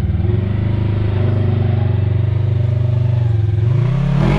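Side-by-side UTV engine running at a steady speed, then revving up briefly and dropping back near the end.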